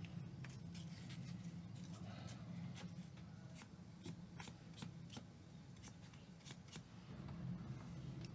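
Small tools and parts being handled at a repair bench: scattered light clicks and taps over a steady low hum.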